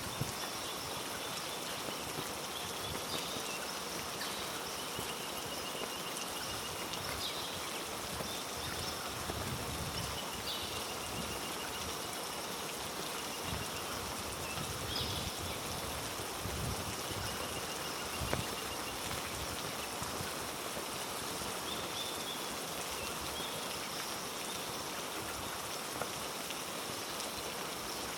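Heavy rain falling steadily through rainforest foliage, with a thin high trill that comes and goes in short spells over it and a few soft low thuds in the middle.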